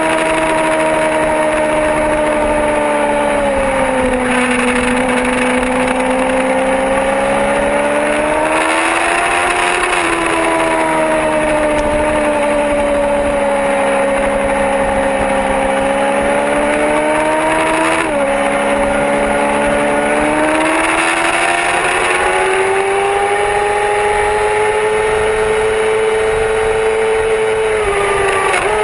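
Yamaha R6 sport bike's inline-four engine pulling hard at high revs through a lap. Its pitch sags and climbs as the bike slows and accelerates, with a couple of sudden jumps in pitch at gear changes, over a steady rush of noise.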